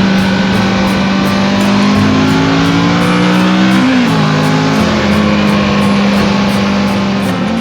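Motorcycle engine on the move: its note holds steady, climbs slowly, dips at a gear change about four seconds in, then holds and dips again near the end. Background guitar music with a steady beat plays over it.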